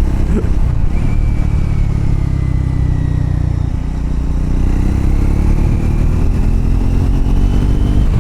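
Triumph Scrambler motorcycle engine under way: its note falls as the bike slows over the first few seconds, then climbs steadily as it accelerates through the second half.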